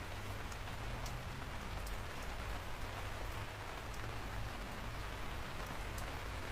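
Steady rain falling on a surface, with scattered sharp drop ticks and a low rumble underneath.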